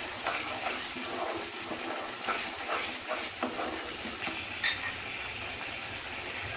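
Thick onion-tomato masala paste sizzling in oil in a non-stick kadai while a wooden spatula stirs and scrapes through it in short irregular strokes, with one sharp tap a little over two-thirds through. The masala is being sautéed (bhuna) until the oil separates.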